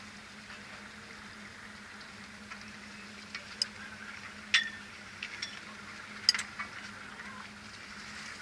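Motor vessel under way: a steady low engine hum with a hiss of wash or wind. Several sharp clicks and clinks come around the middle, the loudest two about a second and a half apart.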